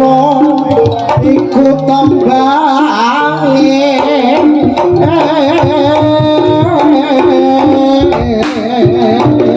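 Live jaranan music from a Javanese gamelan-style ensemble: kendang hand drums and pitched percussion with a wavering, heavily ornamented melodic line over the top.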